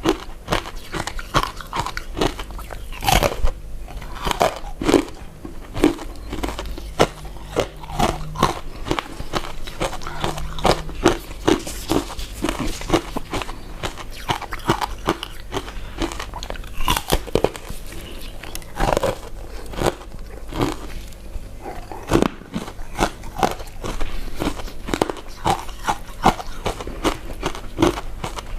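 Close-miked eating of chewy glutinous rice cakes and sweet potato balls: a steady, irregular run of wet mouth clicks and smacks from biting and chewing, with a few sharper smacks.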